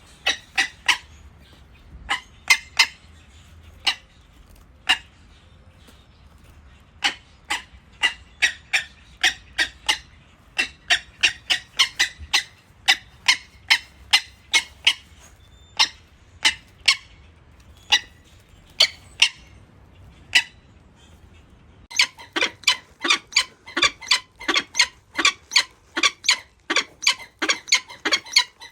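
Falconry bird of prey giving short, sharp, repeated calls, from one to several a second with pauses between runs. About three quarters of the way through the calls become faster and fuller, in a steady run.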